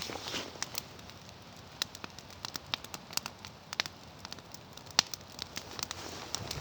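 Wood campfire crackling, with irregular sharp pops and snaps; the loudest pop comes about five seconds in.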